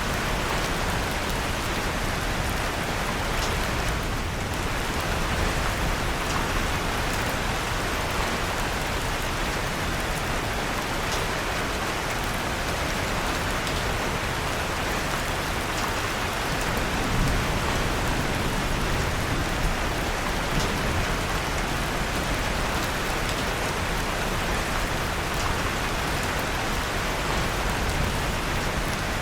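Steady rain falling, with a few faint crackles from a wood fire in a fireplace.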